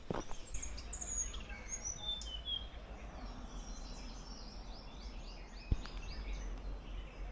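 Forest songbirds calling: a few short high whistled notes, then a quick run of repeated down-slurred notes, about four a second, over a low rumble. A single sharp click about two-thirds of the way through.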